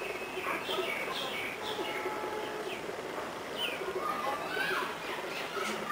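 Birds calling outdoors: short, high chirps that slide downward in pitch, repeated roughly once a second over a steady background hiss.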